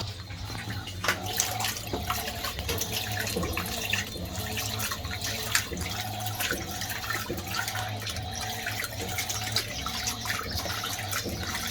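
Fisher & Paykel MW511 top-loading washing machine running with water in the tub: steady splashing and sloshing over a low motor hum, with a faint whine that comes and goes.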